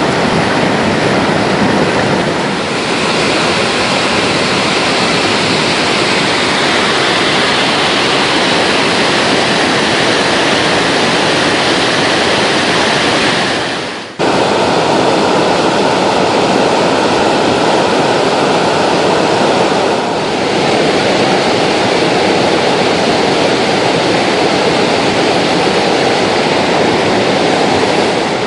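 Beartooth Falls, a waterfall on Beartooth Creek, pouring with a loud, steady rush of water. The sound drops out for an instant about halfway through and comes back a little duller.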